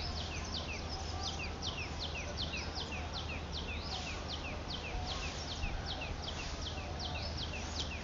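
Birds chirping: a steady run of short, high chirps that fall in pitch, about three or four a second.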